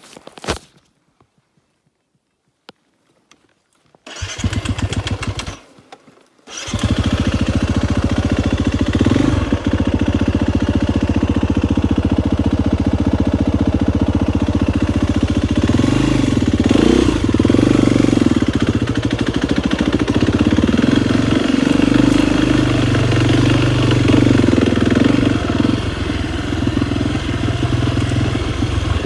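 KTM 250 XCF-W dirt bike's single-cylinder four-stroke engine starting: a short burst about four seconds in that dies away, then it catches a couple of seconds later and keeps running, the revs rising and falling over the second half.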